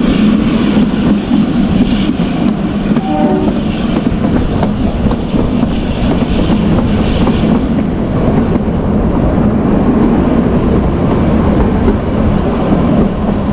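A Kalka–Shimla narrow-gauge train running steadily, with a continuous rumble from the carriage and wheels. A brief horn note sounds about three seconds in. Light clicks of the wheels over rail joints come in near the end.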